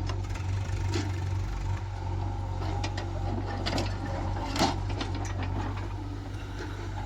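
Heavy diesel machine engine running steadily at a low, even speed, with a few sharp knocks over it, the loudest a little past the middle.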